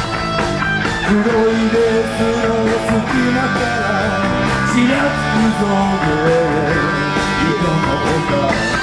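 Live rock band with electric guitar, bass and drums playing, a lead melody gliding and bending between notes over the band.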